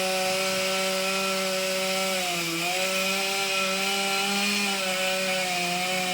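Two-stroke chainsaw running at a steady high pitch while cutting a section of tree, its pitch dipping briefly about two and a half seconds in as the chain takes load, then recovering.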